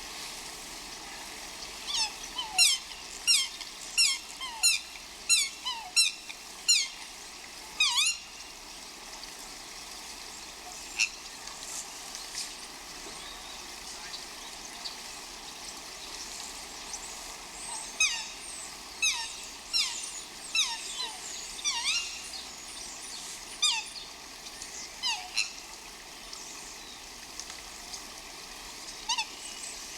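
An animal giving runs of short, sharply falling high-pitched calls, about two a second, with a pause of several seconds between runs, over a steady faint hiss.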